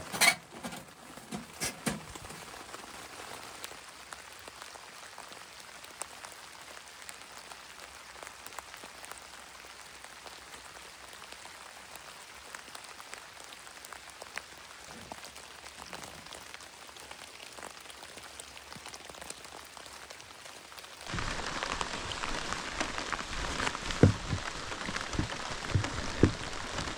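Rain falling steadily, with a few knocks in the first two seconds. About twenty seconds in, the rain suddenly becomes louder, with scattered thuds.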